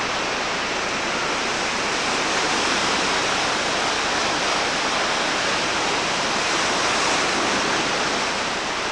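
Steady, loud hiss of noise that stays even throughout, with no separate events in it.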